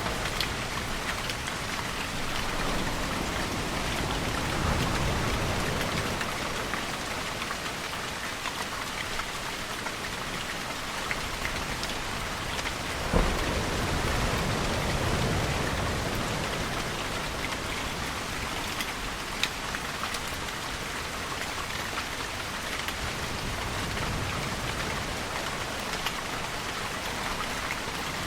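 Steady rain falling, with scattered drip ticks and a low rumble underneath that swells and fades about every ten seconds. A single sharp tap about thirteen seconds in.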